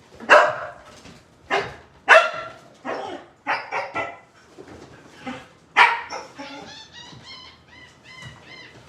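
Dog barking repeatedly in short, sharp barks, then a quick run of short high-pitched cries, about four a second.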